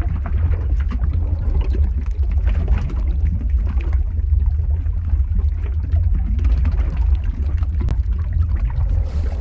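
Lava-flow ambience sound effect: a steady deep rumble with dense, irregular crackling over it.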